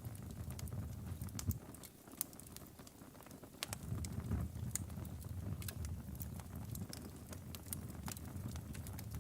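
Logs burning in a fireplace, crackling with irregular sharp pops over a low rumble of the flames. The rumble eases off briefly about two seconds in.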